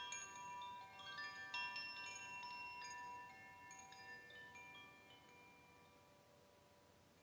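Metal chimes ringing: clusters of bright, high tones set off right at the start and again about a second and a half to two seconds in. The tones then slowly die away.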